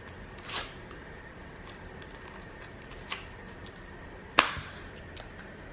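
Small plastic slime container being handled: a short rustle, a faint tick, then a sharp knock about four and a half seconds in.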